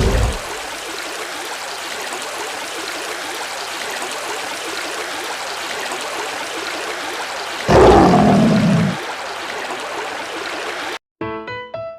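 Steady rushing noise like flowing water, with a louder low burst about eight seconds in that lasts about a second. It cuts off abruptly near the end.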